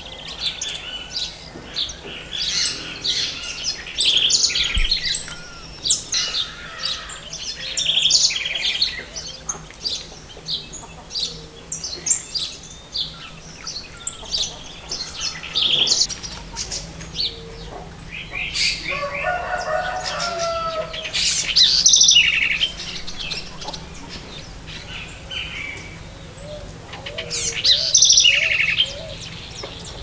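Wild songbirds chirping and calling, with many short high notes overlapping all the way through. About twenty seconds in comes a louder burst with a lower, fuller call.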